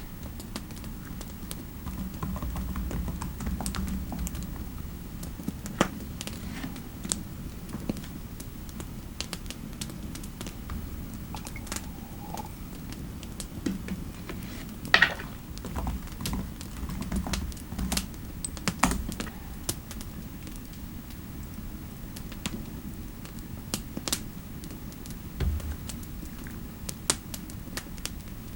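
Typing on a computer keyboard: irregular key clicks throughout, with a few louder taps, over a steady low rumble of fireplace ambience.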